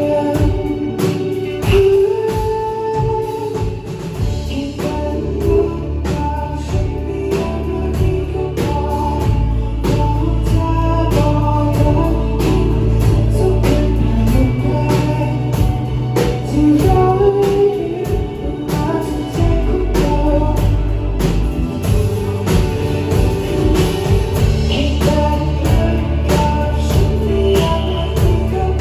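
Live band playing a Thai song at a sound check, with a singer over a steady drum beat and a heavy bass line.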